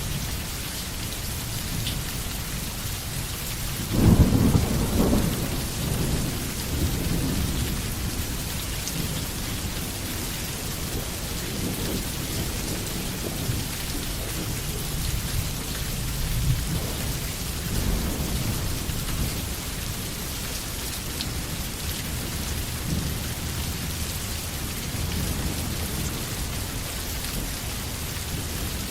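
Steady rain hissing in a forest. About four seconds in a loud clap of thunder breaks and rumbles away over a couple of seconds, and fainter rolls of thunder follow now and then.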